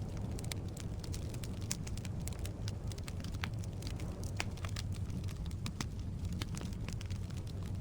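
Firewood burning in a fireplace: a steady low rumble of flame with many irregular sharp crackles and pops from the logs.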